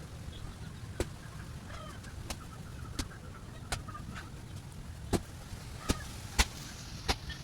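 Outdoor background with a steady low rumble and faint scattered chirps, cut by sharp clicks or taps about once a second that grow louder toward the end.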